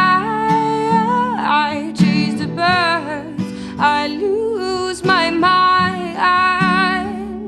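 Acoustic guitar strummed under a singing voice holding long, wavering notes with no clear words.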